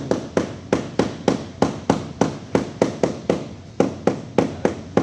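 Hammer blows struck in a quick steady rhythm, about three a second, each a sharp knock with a short ring after it.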